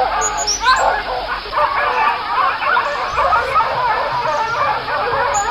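A pack of African wild dogs giving a dense chorus of overlapping high-pitched twittering yips and whimpers during a fight.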